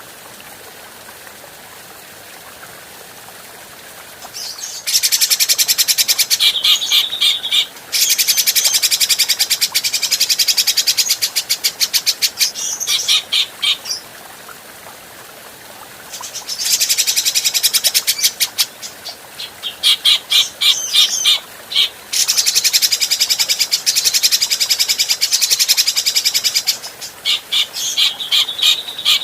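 Cucak jenggot (grey-cheeked bulbul) singing: two long bouts of loud, rapid, high-pitched chattering song with quick repeated notes, starting about five seconds in after a quiet stretch of faint hiss, with a short pause in the middle.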